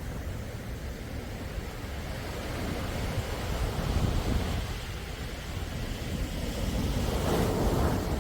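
Sea waves washing ashore in a steady rush, with a low rumble of wind on the microphone. A louder wave surges in about seven seconds in.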